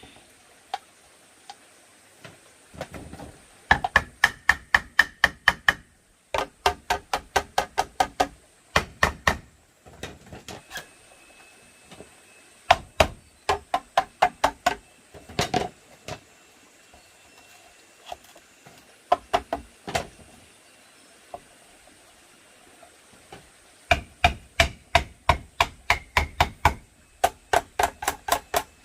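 Bursts of rapid hammer-like blows on bamboo, about six strikes a second, each with a short ringing tone, broken by pauses of a second or more.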